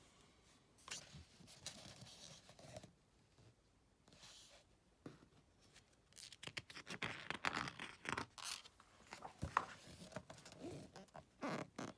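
Pages of a book being handled and turned: faint paper rustles and short brushing scrapes, sparse at first and busier in the second half.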